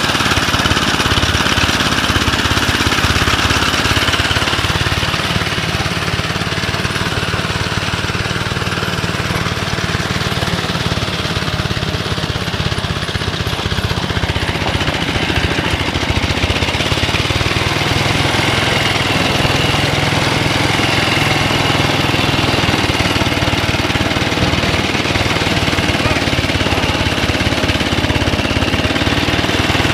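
Small engine of a David Bradley Sears garden tractor with a snowblower, running steadily with a rapid, even pulse.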